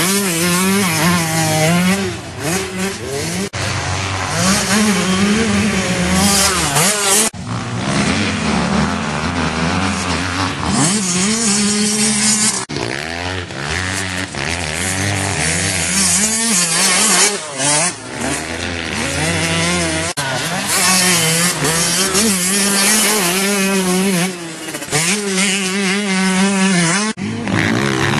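Yamaha YZ125 two-stroke single-cylinder motocross bike being ridden hard: the engine revs climb again and again, break off at gear changes and drop when the throttle is shut, then pick up once more.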